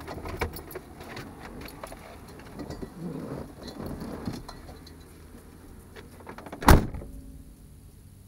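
Car door shut with one loud thump about seven seconds in, after a few seconds of small clicks and rattles like keys and handling.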